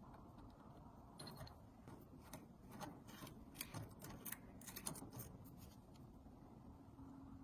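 A run of faint clicks and light scrapes from small metal parts being handled, starting about a second in and dying away after about five seconds.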